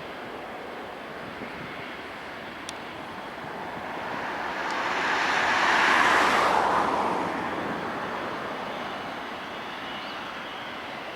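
Jet noise from an Airbus A330-300 with Rolls-Royce Trent 700 engines passing by, rising to a peak about six seconds in and then fading away.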